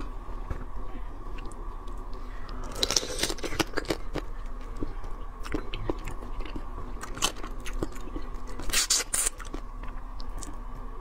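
A person chewing and biting pieces of raw marinated crab close to a clip-on microphone: scattered short wet clicks, with two louder spells of biting about three seconds in and near nine seconds.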